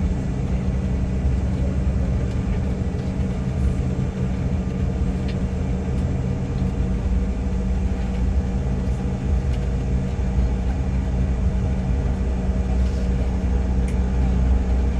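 Steady low drone of an airplane in flight heard from inside the cabin, a constant rumble with a faint steady hum over it.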